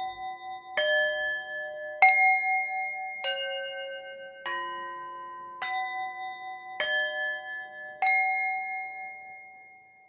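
Chime bells struck one at a time, about every 1.2 seconds, each note at a different pitch and left ringing. Seven strikes in all, and the last one rings out and fades to silence near the end.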